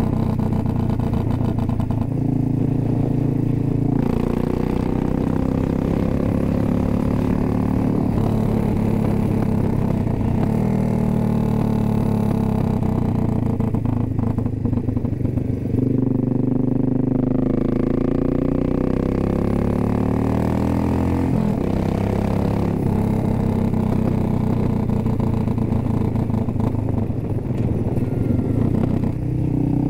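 Suzuki S40 Boulevard's 650cc single-cylinder engine running on the road. Its note holds and shifts through the first half, falls steadily as the bike slows past the middle, then changes abruptly and climbs again as it pulls away.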